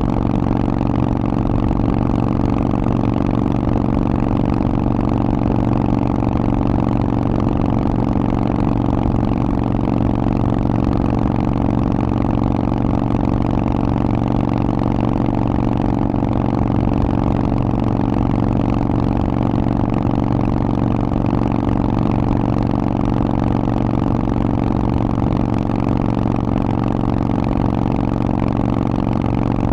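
Harley-Davidson Forty-Eight's 1200 cc V-twin running through a Vance & Hines exhaust at a steady, unchanging engine speed, with no revving.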